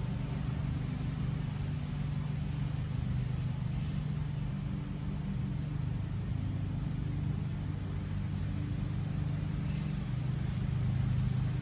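A steady low machine hum, like an engine running at idle, with no change throughout.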